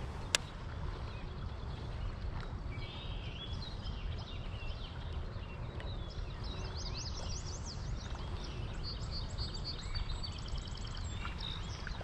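Songbirds singing many short, quick chirping phrases over a steady low rumble, with one sharp click about a third of a second in.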